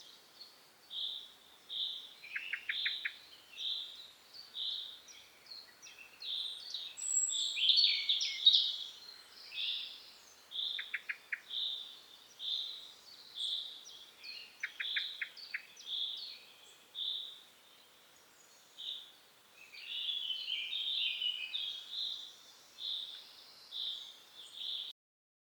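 Woodland birds chirping in spring: a steady run of short high chirps, one or two a second, with a few quick rattling trills and busier bursts of song mixed in. The sound cuts off suddenly near the end.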